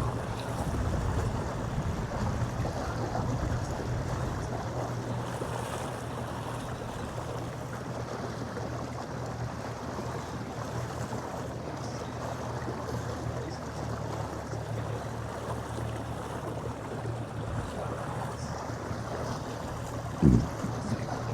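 Wind buffeting the microphone and water slapping against a small fishing boat's hull, over a steady low hum. A single sharp knock sounds near the end.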